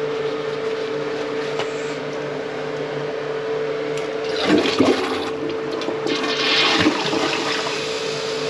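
Toilet flushing as a test of its slow flush: water rushing and gurgling in the bowl, swelling about halfway through with two louder surges, over a steady background hum.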